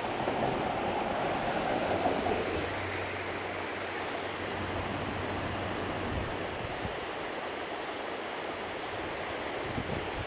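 Steady rush of a river running over falls and rapids.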